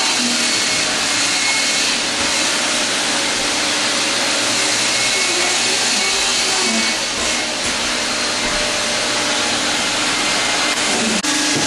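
Wet/dry shop vacuum motor running loud and steady, a continuous rushing whine.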